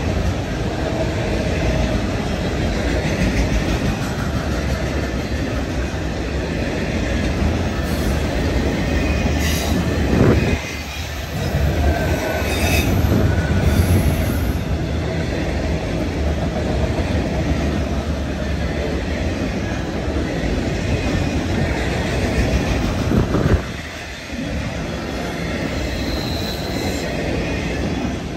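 Norfolk Southern freight train rolling past, its steel wheels rumbling and clattering on the rails, with faint high wheel squeals.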